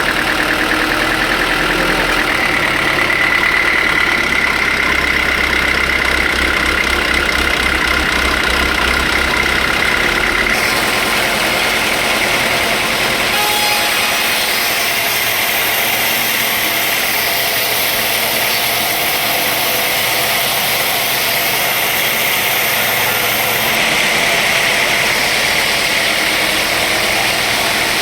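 Sawmill machinery running steadily on an engine. About ten seconds in the deep low hum drops away, and a higher hiss joins for the middle stretch.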